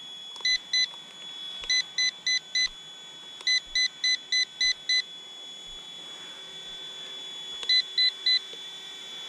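A toy RC helicopter transmitter beeping in short, evenly paced runs of two, four, five and three beeps, the sound of trim buttons being pressed while the helicopter is set to hover. Under the beeps, the micro helicopter's electric motors run with a steady high whine.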